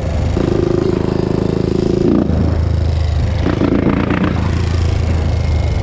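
Honda TRX400EX ATV's single-cylinder four-stroke engine running, its revs rising twice, from about half a second to two seconds in and again briefly around three and a half seconds, dropping back lower in between.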